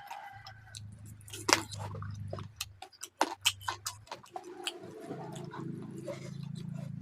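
Close-up mouth sounds of someone eating chicken curry with rice: wet chewing and lip smacks with sharp clicks and crunches, the loudest about one and a half seconds in.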